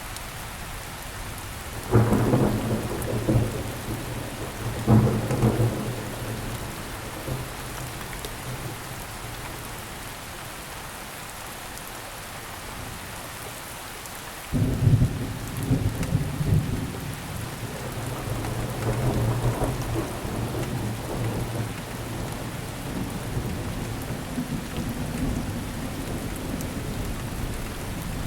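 Steady rain falling, with thunder: two sharp rumbles about two and five seconds in, then a louder sudden clap about halfway through that rolls on in waves.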